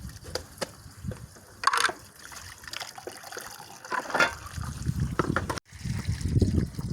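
Dishes being washed by hand: water trickling and sloshing, with scattered light knocks and clinks of dishware. The sound cuts out for a moment a little past halfway.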